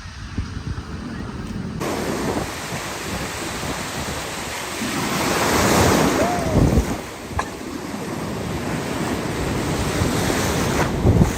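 Ocean surf washing in, one wave swelling and breaking about six seconds in, with wind buffeting the microphone.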